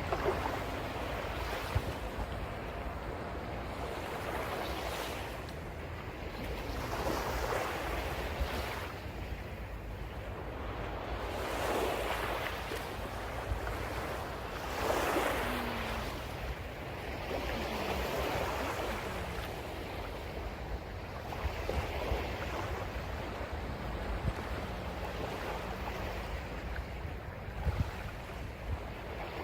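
Sea waves breaking and washing in, swelling and fading every few seconds, over a steady low rumble of wind on the microphone.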